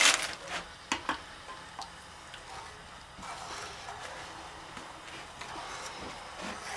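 A few light knocks and clicks in the first second or so, as a chocolate tablet goes into a pot of mole sauce, then a faint steady hiss.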